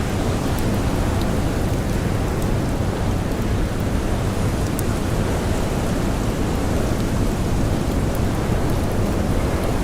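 Steady, dense rush of snowstorm wind with blowing snow, heaviest in the low end, with a few faint scattered crackles of a campfire.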